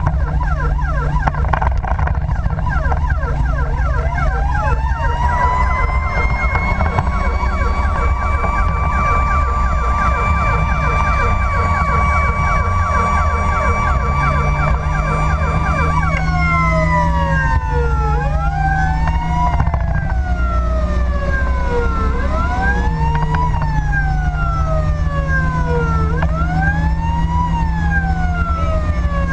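Fire engine's siren during an emergency response, changing modes: a fast yelp, then a held, rapidly pulsing tone, then a slow wail rising and falling about every four seconds. A steady engine and road hum runs underneath.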